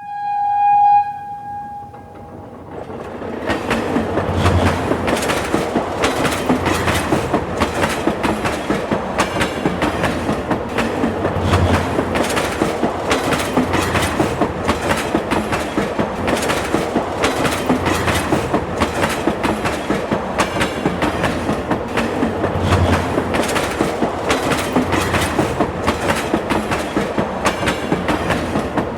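A train sounds one short horn note, then a train rolls past, its wheels clattering over the rail joints in a steady run of knocks.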